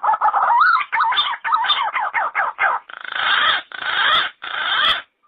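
Yellow-footed green pigeon singing: a quick run of warbling whistled notes that waver up and down in pitch, followed by three longer, harsher notes, then it stops abruptly.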